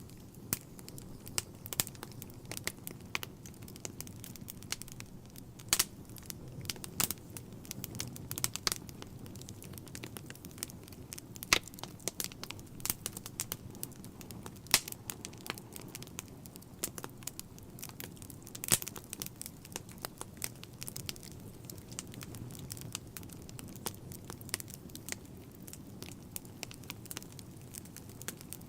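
Wood fire burning in a fireplace: a steady low rush of flames with frequent crackles and sharp pops from the burning logs, a few of them much louder than the rest.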